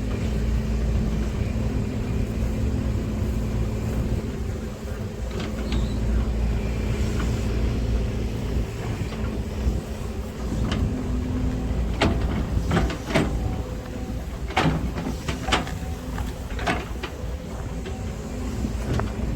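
Kobelco SK200-10 excavator's diesel engine running steadily, with a string of sharp knocks and clunks past the middle.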